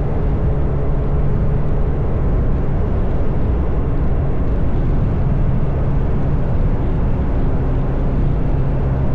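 Motorcycle engine running steadily at cruising speed, a constant low engine note under a rush of riding noise.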